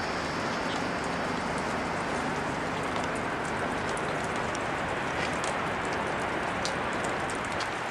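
Steady rushing storm noise of wind and rain, with scattered light ticks throughout.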